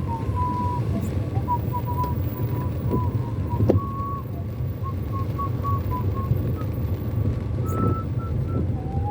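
Steady low rumble of a car in slow traffic. Over it runs a series of short high beeping or whistling notes that shift in pitch.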